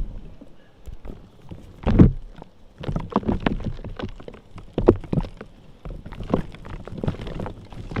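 Reformed gym chalk pieces being crushed and crumbled, giving dry crunches and crackles in uneven clusters, with the loudest crunches about two seconds in and again near the middle.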